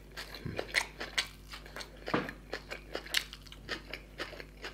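Close-miked chewing of a mouthful of mutton seekh kebab and raw onion ring, with irregular sharp wet crunches and clicks several times a second.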